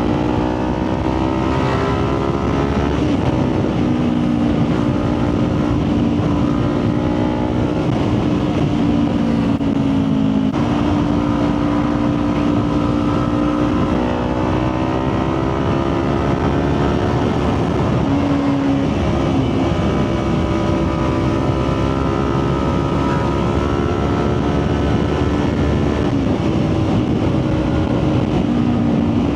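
Motorcycle engine running at cruising speed on the road, its pitch stepping up and down a few times, under a steady rush of wind noise.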